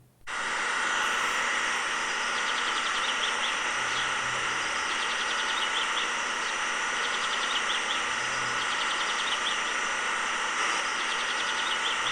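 A small motor running steadily with a constant whine. Clusters of high chirps recur every couple of seconds.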